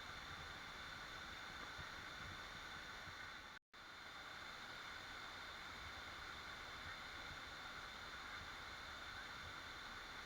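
Steady, faint rush of a waterfall, cutting out completely for an instant about three and a half seconds in.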